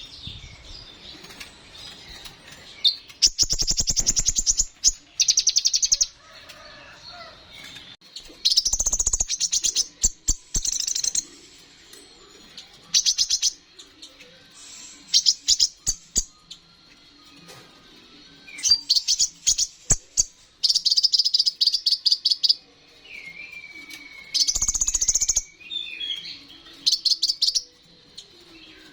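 Kolibri ninja (konin) sunbird singing: bursts of fast, very high, buzzy trills about a second long, repeated again and again with short gaps. About three-quarters of the way through comes a lower, wavering whistled phrase.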